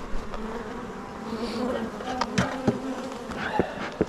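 Honeybees from an open hive buzzing, a steady hum, with a few sharp clicks in the second half.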